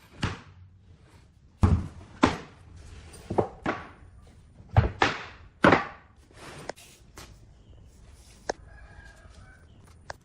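Irregular sharp knocks of a hammer striking wood, about a dozen blows with uneven gaps, each ringing briefly.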